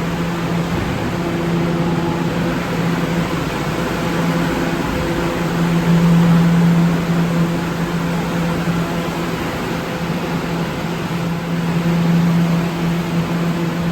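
R211 subway train running: a steady mechanical rush with a low drone that swells and fades, loudest about six seconds in.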